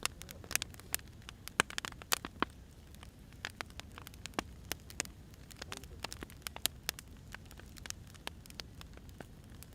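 Burning firewood crackling, with irregular sharp pops and snaps over a low, steady background.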